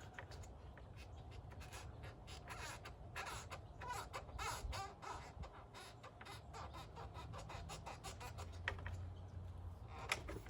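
Faint bird calls: a run of short, harsh calls, mostly in the first half, over a low background rumble.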